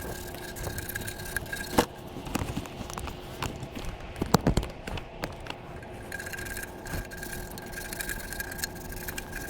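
Scattered metal clinks, taps and scrapes of hands and tools working on a furnace's sheet-metal parts, with a cluster of sharper knocks about four seconds in, over a steady faint hum.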